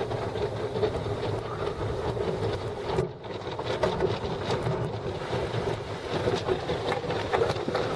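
Automatic car wash working over the car, heard from inside the closed cabin: a steady rush of water spray and machinery with many small hits on the body, briefly dipping about three seconds in.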